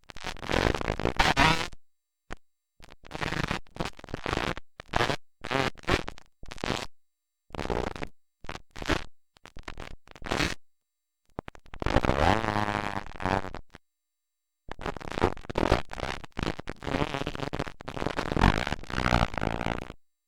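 Motocross dirt bike engines revving up and down, the sound broken up and cutting out to silence many times.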